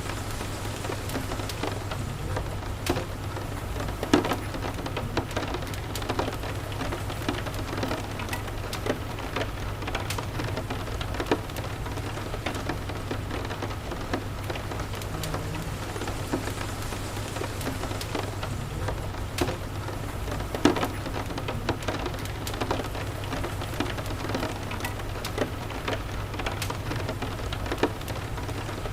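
Steady rain with a constant low rumble underneath, and a wood fire crackling with scattered sharp pops, the loudest about four seconds in and again about twenty seconds in.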